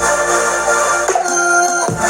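Electronic dance music with a heavy bass and sustained synth notes, played through a somBOX D-X002 portable Bluetooth speaker.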